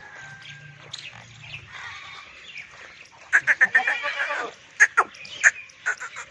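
A goat bleating: one loud, wavering call about halfway through, followed by a few short, sharp chirps.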